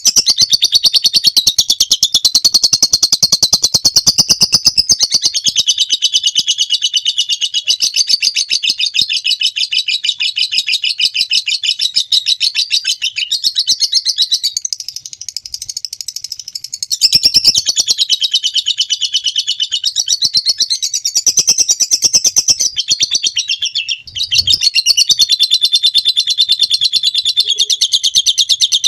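Lovebird chirping in a long, rapid chattering trill (ngekek), high-pitched and running almost without a break, with a short lull a little past halfway and a brief dip later on.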